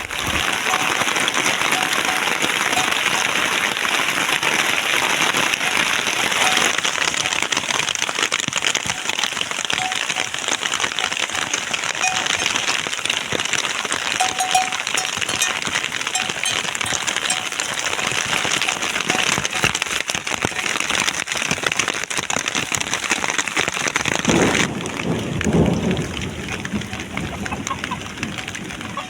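Heavy monsoon rain pouring steadily, a dense hiss of drops hitting surfaces. Near the end the high hiss thins and a lower rumbling sound swells for a couple of seconds.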